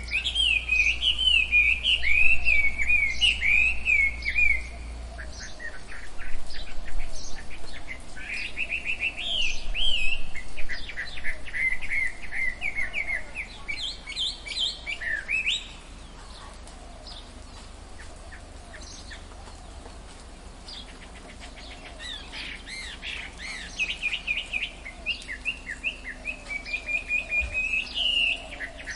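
Tropical forest birdsong: several birds chirping and warbling in fast runs of high notes, busy in the first half, thinning to a quieter stretch in the middle, then picking up again near the end.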